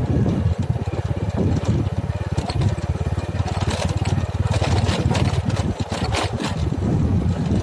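Engine of a digging machine running steadily with an even low pulse. A series of sharp knocks or scrapes comes through the middle of the stretch.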